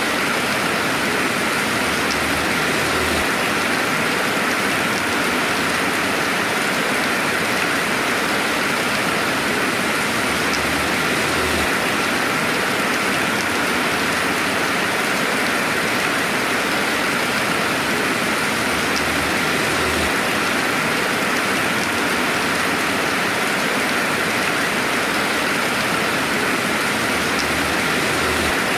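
Steady rainfall: an even, continuous hiss of rain with no thunder.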